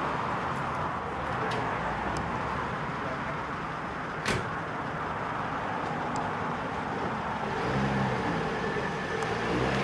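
Engines of restored Holden Special sedans running at low speed as the cars creep forward, a steady low rumble. One sharp click about four seconds in.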